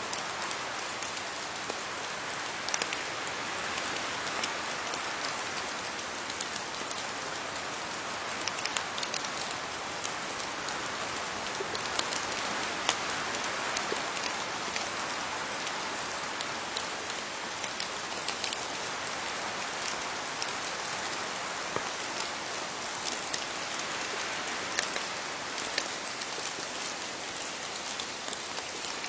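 Steady rain falling on leaves, an even hiss with many separate drops ticking throughout.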